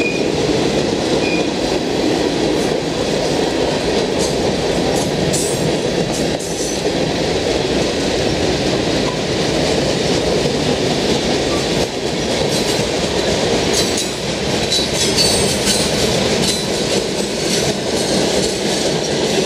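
Freight cars of a passing train rolling by: a steady rumble and clatter of steel wheels on the rails, with brief high squeaks about two-thirds of the way through.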